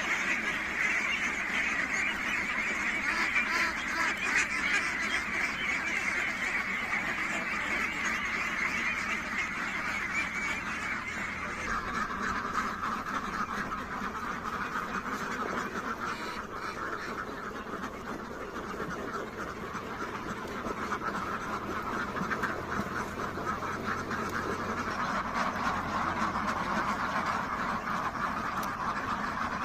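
A flock of domestic ducks quacking continuously, many birds calling over one another in a steady chorus.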